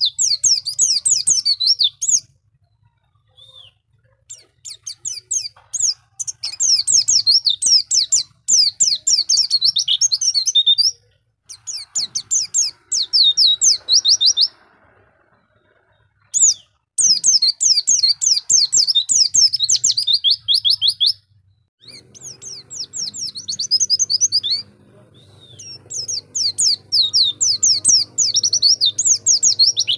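White-eye (pleci) singing long, rapid twittering phrases of high trills, each lasting several seconds, with short pauses between them.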